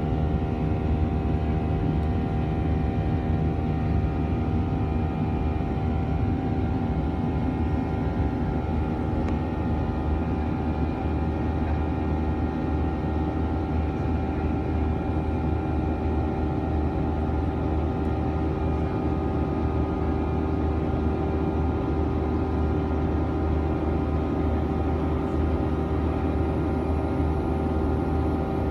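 Boeing 737-900's CFM56 jet engines running steadily, heard inside the passenger cabin: a low hum with several fixed steady tones over it, and a faint high whine that rises slightly near the end.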